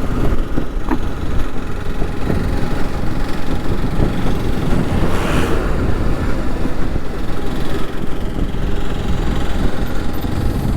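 Motorcycle running at a steady cruise under a loud, even rush of wind noise, with a low engine rumble underneath.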